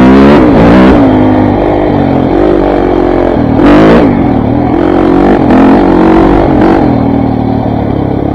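KTM 400 MXC's single-cylinder four-stroke engine under way, its pitch rising and falling as the throttle is opened and eased off. Two brief bursts of noise stand out, one at the start and one about four seconds in.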